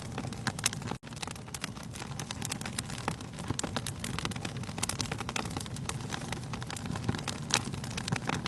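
Wood fire burning in a fireplace: logs crackling densely with frequent sharper pops over a low steady rumble of the flames. The sound breaks off for an instant about a second in.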